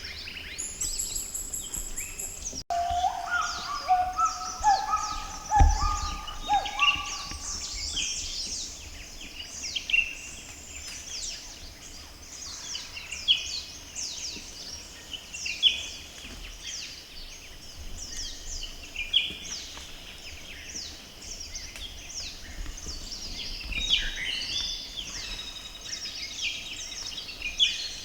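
Chorus of many tropical forest birds calling at once, mostly short high downslurred notes repeated over and over. A few seconds in, a series of lower whistled notes joins for a few seconds.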